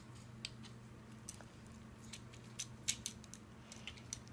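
Faint, irregular clicks of a small plastic Transformer toy's joints being turned by hand, over a steady low hum.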